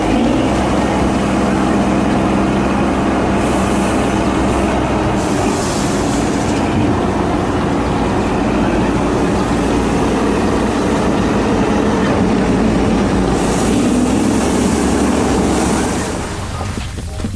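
Loud steady mechanical rumble of a heavy vehicle, dropping away about sixteen seconds in.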